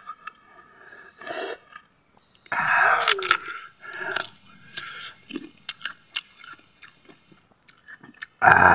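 Crunchy close-up chewing of raw green mango, with many sharp wet mouth clicks and a few short breathy grunts. A loud breathy vocal sound starts near the end.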